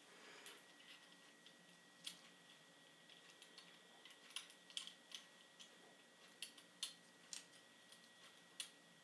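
Faint, irregular clicks and taps, about a dozen scattered through near silence, with a faint steady high-pitched tone underneath.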